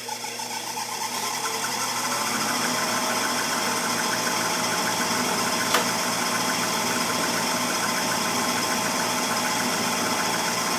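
Gas furnace starting up: a motor spins up over the first couple of seconds, then runs steadily with a fast, even hum. A single sharp ignition click comes about six seconds in.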